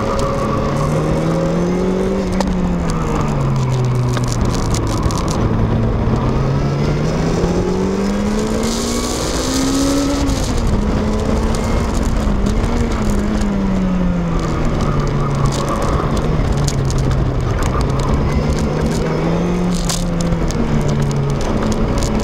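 Sports car engine heard from inside the cabin while being driven hard on a racetrack: its pitch rises and falls with throttle and speed through the corners. About ten seconds in, a long climb in revs ends with a sudden drop in pitch at a gear change.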